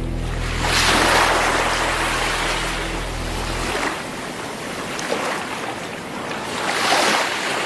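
Sea waves breaking and washing up the shore, swelling twice: once about a second in and again near the end. A low sustained music drone sits underneath and fades out about halfway.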